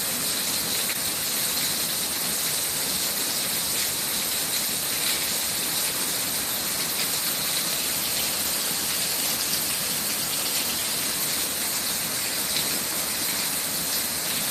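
Torrential thunderstorm downpour: heavy rain making a steady, even hiss.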